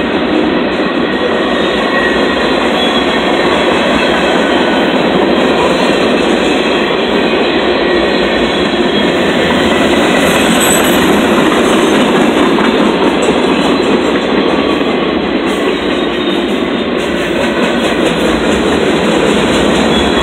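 Freight cars of a long CSX freight train rolling steadily past: a continuous rumble of steel wheels clattering along the rails, with faint high wheel squeal now and then.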